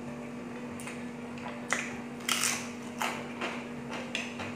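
A person chewing crunchy fried food close to the microphone: a run of sharp, irregular crunches, loudest around the middle.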